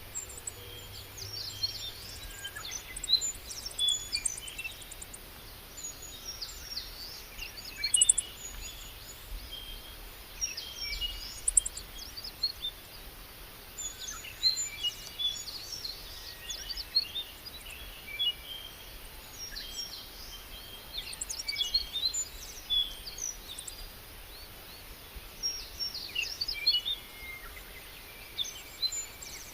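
Small birds chirping and singing, several at once, in bursts of quick high notes and short trills every few seconds over a steady background hiss.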